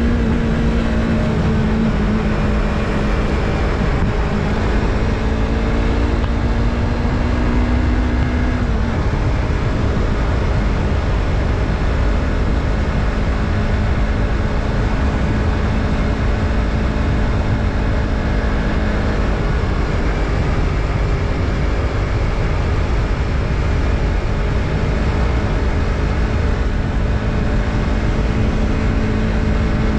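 Yamaha MT-03's parallel-twin engine running as the bike cruises, with wind and road rush. The engine note shifts a little in the first nine seconds, then holds steady.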